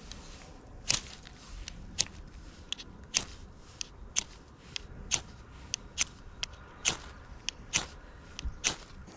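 Fire steel being scraped with a striker to throw sparks: short, sharp rasping strokes about once a second, with lighter scrapes between them.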